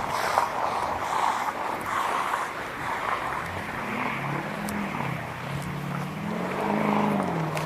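Street traffic noise, with a vehicle engine coming in about three seconds in, its pitch slowly rising and falling.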